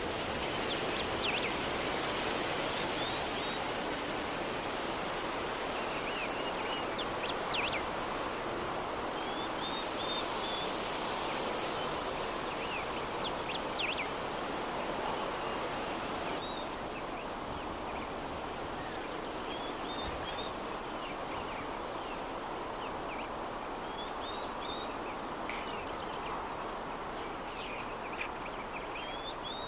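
Soft, steady breeze with small birds chirping and whistling in short high phrases every few seconds.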